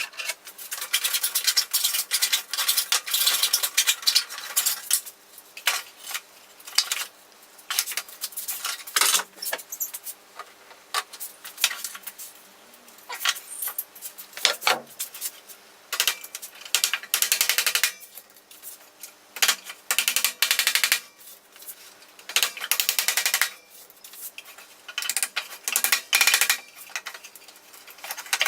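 A hand tool cutting into old wood in repeated scraping bursts, each one to five seconds long, with short pauses and a few sharp clicks between: a big hole being worked into a piece of furniture wood.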